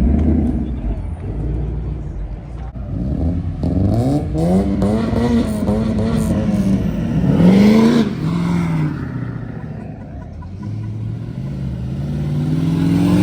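A car engine revving hard twice. Its pitch climbs from about four seconds in and drops off just before the middle, then rises again over the last few seconds.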